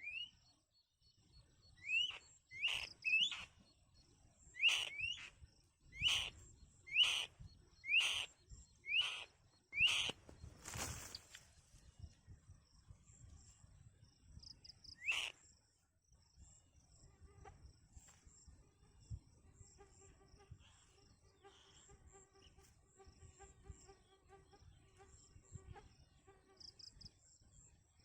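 A bird giving a short rising call over and over, about once a second for the first ten seconds and once more around the middle, with a brief rushing noise just after the run of calls. A faint steady high-pitched tone, like insects, runs underneath.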